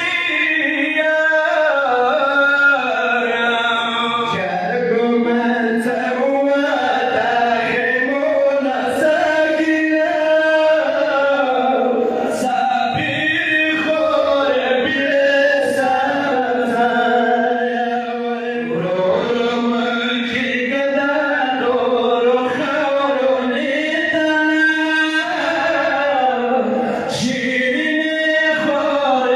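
Male voice chanting a mourning recitation with long, wavering held notes, without instruments.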